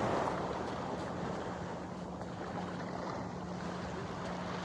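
Steady wind on a phone microphone and water at a shoreline, with a faint low steady hum underneath.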